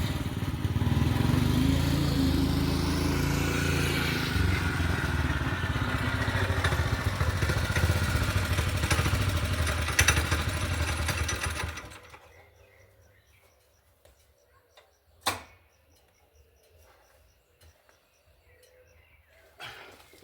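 Honda GX200-clone single-cylinder four-stroke engine on a two-wheel-drive motorcycle running hard with its governor removed, its pitch rising and falling. About twelve seconds in the engine sound falls away to quiet, and a single sharp click follows a few seconds later.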